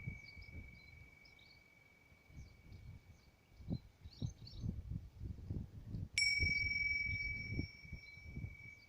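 A bell-like chime rings steadily and fades over the first few seconds. It is struck again sharply about six seconds in and rings on with a clear high tone. Faint low thuds sound underneath.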